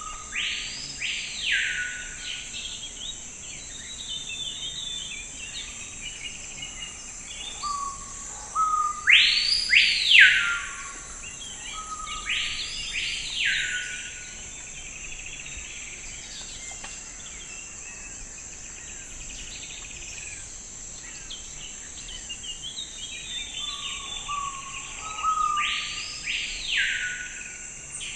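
Forest birds calling over a steady high insect drone. Four times, a few short low notes lead into a long note that sweeps up and back down, the loudest sound each time, with softer chirps in between.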